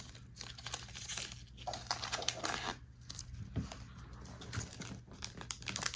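Foil wrappers of trading card booster packs crinkling and tearing as packs are opened and cards handled, in an uneven run of crackles.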